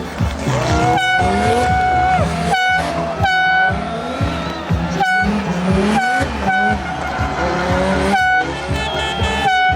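Rally cars' engines revving up and down through the gears, with a spectator's air horn sounding a long held blast. The sound breaks off abruptly several times and starts again.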